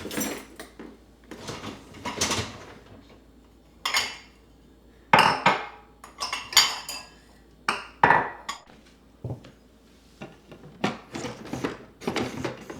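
Dishes and cutlery clattering as they are handled and set down: a string of irregular sharp knocks and clinks, some ringing briefly.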